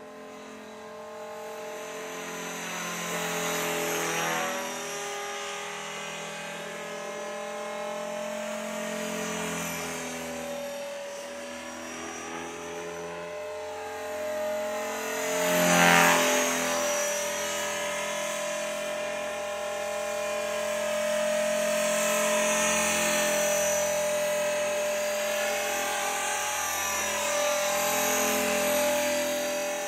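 E-flite Blade 400 electric RC helicopter in flight: a steady motor and rotor whine that swells and fades as it moves around. About halfway through it passes close by, at its loudest, with the pitch bending as it goes past.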